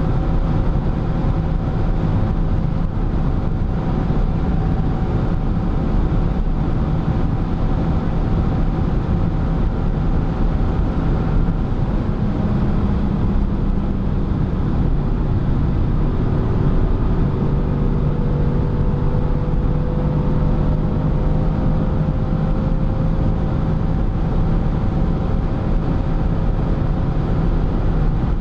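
BMW M6 F12's twin-turbo V8 droning steadily at high autobahn speed, heard inside the cabin over a constant rush of road and wind noise. The engine note shifts slightly in pitch a couple of times about halfway through.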